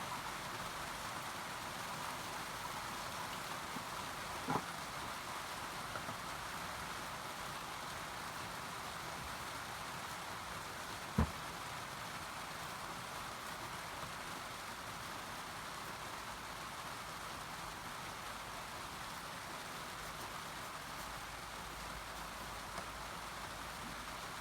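Steady rain falling, an even hiss, with two short knocks, the sharper one about eleven seconds in.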